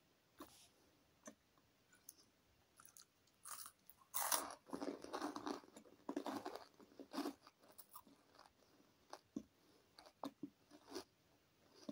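Close-up mouth sounds of biting and chewing a chicken and lettuce baguette: a few seconds of crunching about four seconds in, with scattered wet mouth clicks before and after.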